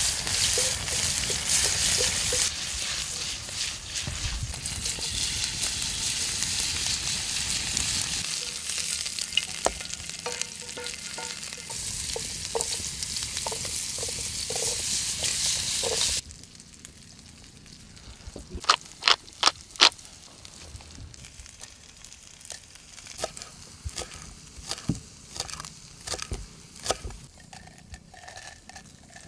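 Diced meat and vegetables sizzling and being stirred in a frying pan over an open wood fire, with crackling, for the first sixteen seconds, then the frying cuts off abruptly. After that it is much quieter, with a few sharp knocks and clinks, the loudest a quick cluster about twenty seconds in.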